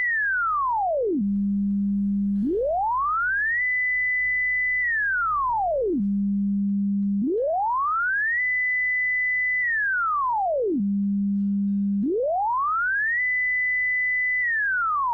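Computer-generated pure sine tone from a p5.js sketch sonifying a square, its pitch following the rider's height on the shape. It holds a high note for about a second, glides smoothly down to a low note, holds that, then glides back up, two and a half times over.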